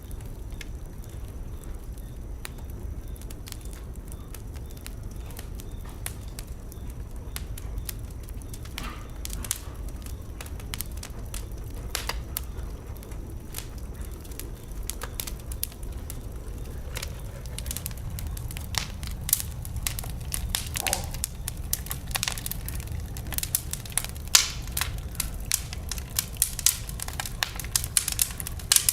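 Fire burning in a fireplace: a steady low rumble of flame with crackles and sharp pops, which come more often and louder in the second half.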